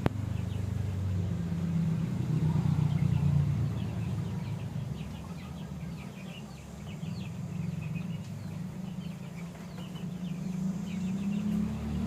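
A bird giving many short, quick chirps over a loud, steady low rumble.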